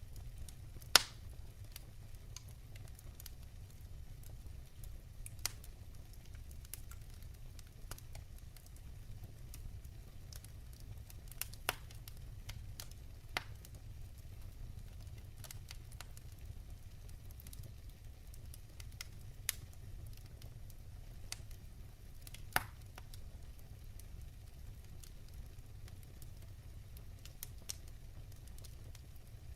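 Wood fire burning in a fireplace, crackling with scattered sharp pops, the loudest about a second in and another a little past the two-thirds mark, over a steady low rumble.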